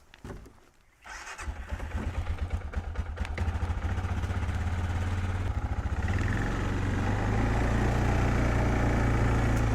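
An engine starts about a second in, runs with a rough, uneven pulse, then settles into a steady idle from about six seconds in.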